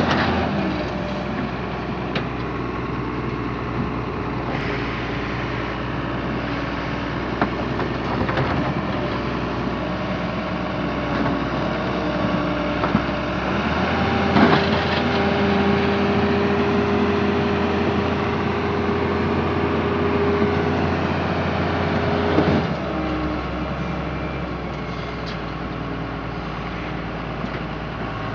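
Heavy diesel engine of earth-moving machinery running steadily. Its note shifts and grows louder for several seconds around the middle as it works under load. A few sharp knocks are heard.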